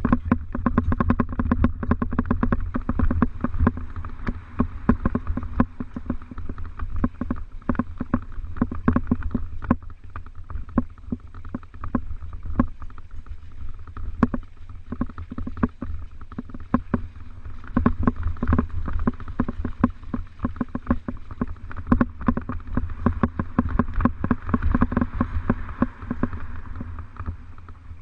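Mountain bike rattling and clicking over rough ground, with dense irregular knocks over a steady low rumble.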